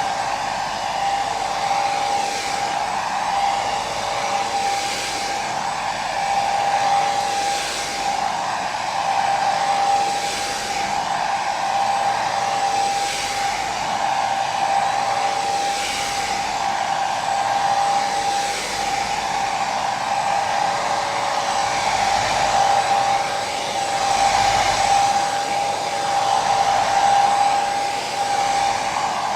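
Electric hair dryer running continuously, with a steady whine from its motor over even airflow noise and a gentle swell about every two seconds.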